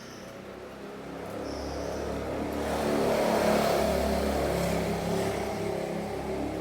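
A motor vehicle passes by, its engine sound rising to a peak about halfway through and then fading.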